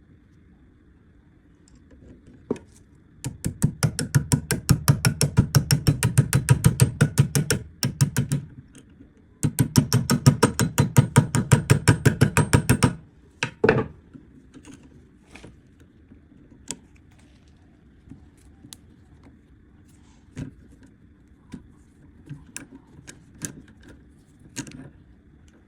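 Rapid, evenly spaced mechanical clicking from a tool, about eight clicks a second, in two runs of about four seconds each with a short pause between, followed by scattered single clicks and knocks.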